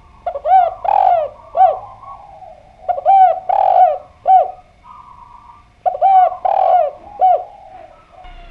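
Spotted dove (derkuku) cooing: three phrases, each of a few short coos around a longer one, repeated about every three seconds.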